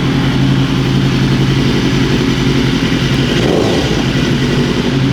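Superbike engine running loudly at a steady idle, with a brief blip of the throttle, rising and falling, about three and a half seconds in.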